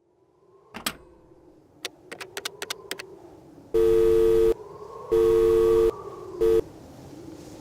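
Telephone busy tone: a steady two-note beep sounds twice for just under a second each and is cut off short on the third, after a few sharp clicks like a handset being handled or keys pressed.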